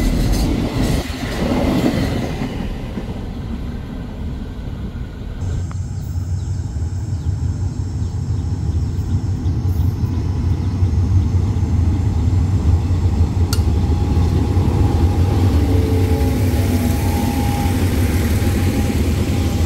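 Freight train wagons rumbling past, fading over the first few seconds. Then a diesel locomotive's steady low engine drone as it hauls a passenger train in, with faint high squealing tones near the end as it slows.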